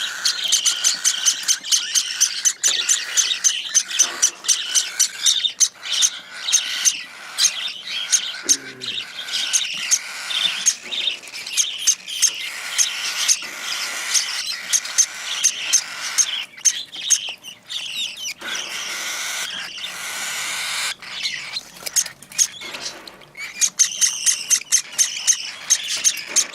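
Cockatiel chicks begging while being hand-fed formula: rapid, raspy, repeated food-begging calls, several a second, continuing throughout.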